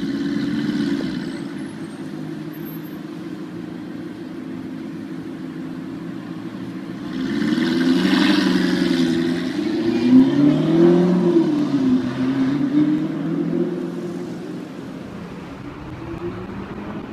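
Audi R8's 5.2-litre FSI V10 engine and exhaust running steadily, then revving loudly in the middle with the pitch rising and falling several times before settling back to a lower, steady note.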